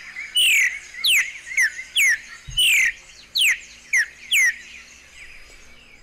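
Streaked saltator song: a series of sharp, falling whistled notes, roughly two a second, over faint chatter of other birds. The notes stop after about four and a half seconds.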